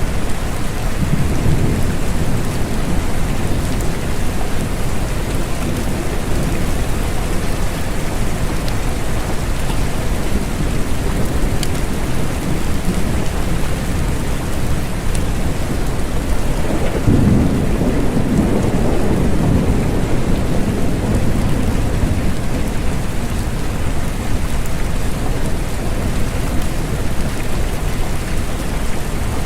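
Steady rain falling, with low rolling thunder: a soft rumble near the start and a stronger, longer one a little past halfway.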